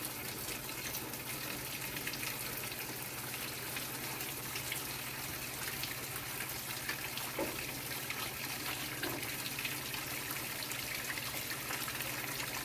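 Engine coolant draining from the truck's radiator and coolant reservoir, pouring steadily into a bucket.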